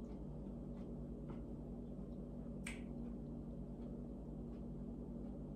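Faint wet mouth clicks and smacks of someone chewing, a handful of soft ticks with one clearer click about two and a half seconds in, over a steady low electrical hum.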